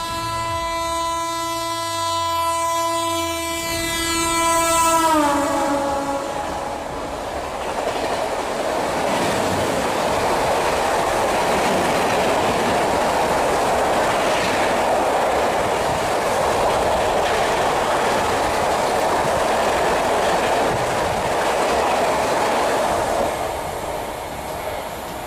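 Mumbai Rajdhani Express passing at high speed, about 160 km/h. Its horn sounds a held note that drops in pitch as the locomotive goes by about five seconds in. The steady rush and clatter of the coaches follows and eases off near the end.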